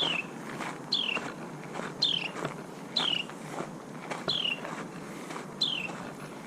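A songbird repeating a short, clear note that slides down in pitch, about once a second, over the steady crunch of footsteps on a park trail.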